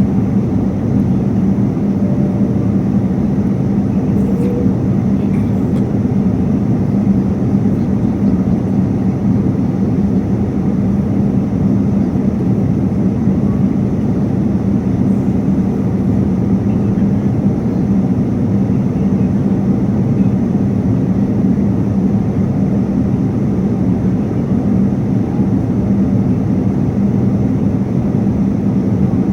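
Airliner cabin noise in flight: the steady low rumble and rush of the jet engines and airflow, with a constant hum underneath and no change in level.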